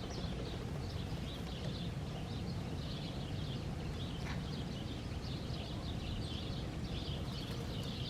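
Small songbirds twittering and chirping continuously, high and busy, over a steady low rumble.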